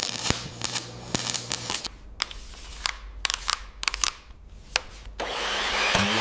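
Scattered sharp metal taps and clicks over a low hum, from tools working on a car body panel. About five seconds in, a power tool starts with a loud steady hiss.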